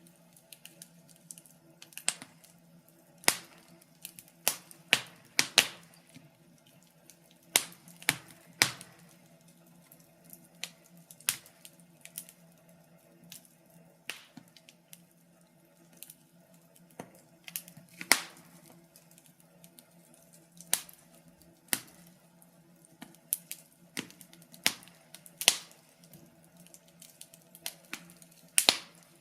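Wood fire in a fireplace crackling, with irregular sharp pops and snaps, a few of them much louder than the rest, over a faint steady low hum.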